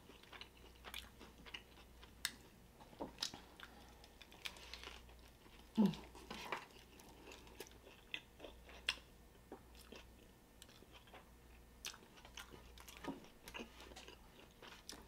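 A person chewing big bites of a flour-tortilla burrito with beans: faint, scattered wet mouth clicks.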